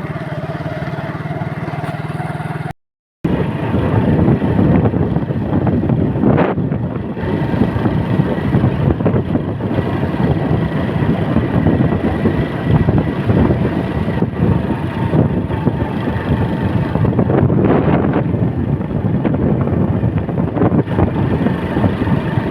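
A motor vehicle's engine running, steady at first, then cut off by a brief gap about three seconds in, after which a louder, rougher running noise continues.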